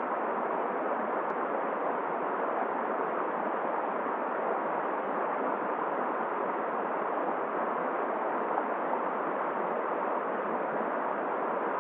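Steady, even rushing noise of a flowing river and wind.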